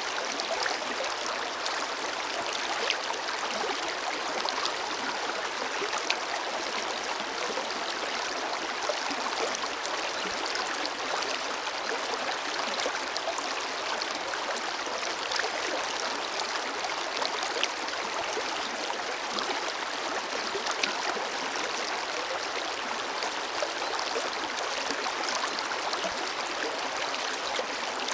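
Forest river flowing steadily over rocks, a continuous rushing and splashing of water with small splashes coming up throughout.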